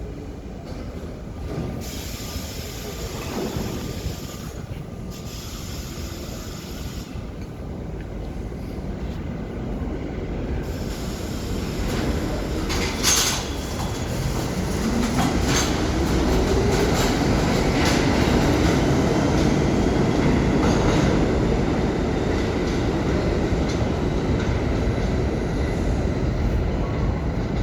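R32 subway train running through the station, growing louder, with wheel noise and squeal, a sharp clank about halfway through, and a motor whine rising in pitch over several seconds as the train picks up speed.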